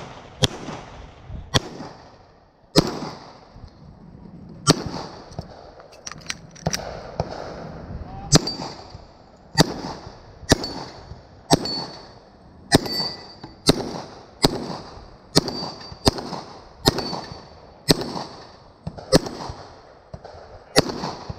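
About twenty gunshots fired in a steady string during a multigun stage, roughly one a second and coming faster in the second half. Many shots are followed by a brief metallic ping from hit steel targets.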